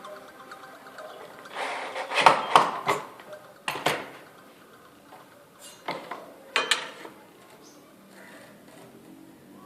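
Metal parts clinking and knocking as they are handled: a run of sharp knocks about two seconds in, two more near four seconds, a few more around six seconds, then quieter.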